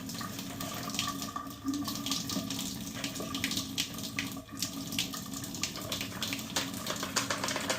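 Water running from a tap into a sink, with irregular splashes and knocks as a vacuum part is washed under it.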